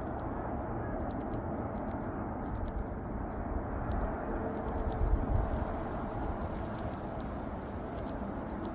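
Steady outdoor rumble and hiss of wind on the microphone, swelling with a gust about five seconds in, with scattered faint clicks.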